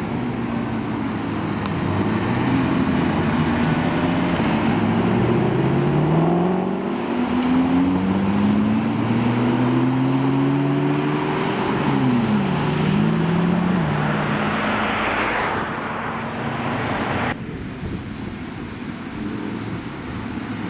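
Several supercar engines running at once, their pitches rising and falling as they rev and accelerate through the gears. Near the end the sound cuts abruptly to quieter engine noise.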